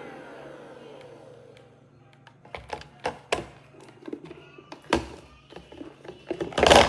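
Handheld cordless vacuum's motor winding down after being switched off: its whine falls in pitch and fades away over the first two seconds. Then a run of sharp clicks and knocks as the vacuum is handled, the loudest near the end.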